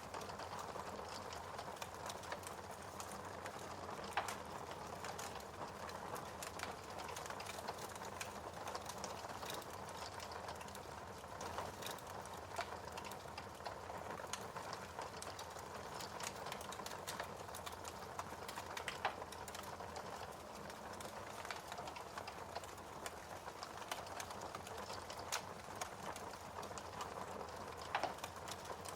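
Fire in a fireplace crackling: a steady bed of small crackles, with a few louder, sharper pops scattered through.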